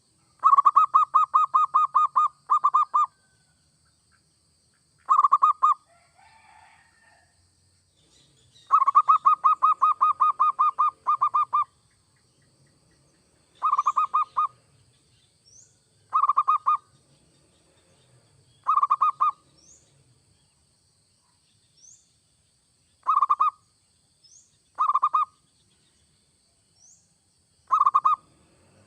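Zebra dove (perkutut) cooing in rapid strings of short, evenly spaced notes. Two long runs come early and midway, then shorter bursts every two to three seconds. Faint, quick rising high chirps sound between the bursts.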